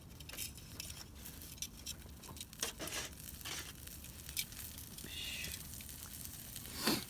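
Campfire crackling, with scattered small pops and clicks and a brief louder sound near the end.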